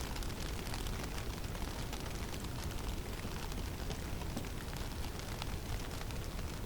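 Snowstorm in a forest: a steady low rumble of wind with a dense, fine pattering of snow striking.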